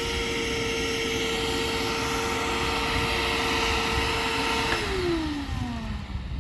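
Electric vacuum cleaner running with a steady motor whine, then switched off about five seconds in, its pitch falling as the motor spins down.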